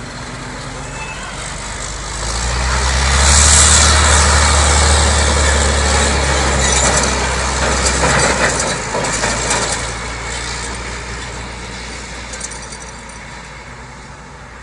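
Heavy truck's diesel engine running as it passes close by, with a deep rumble that builds, peaks about three to four seconds in, and then fades away.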